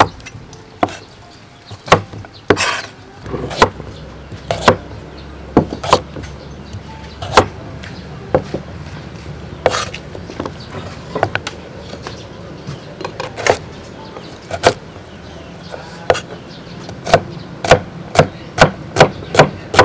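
Knife chopping on a wooden cutting board: scattered single strikes, then a steady run of chops about two to three a second over the last few seconds.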